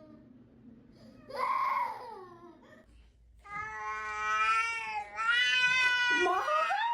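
A cat meows once with a falling pitch, then gives two long, drawn-out yowls starting about three and a half seconds in.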